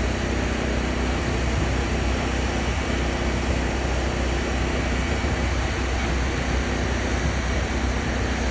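A truck engine running steadily with a low drone, as the PODS container is loaded onto the truck.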